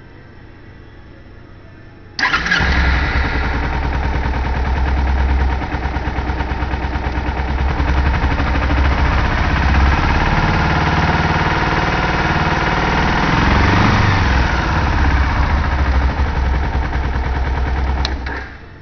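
A 2010 Kawasaki Ninja 250's parallel-twin engine starting about two seconds in and idling steadily, with one brief rise and fall in pitch about two-thirds of the way through, then shut off near the end.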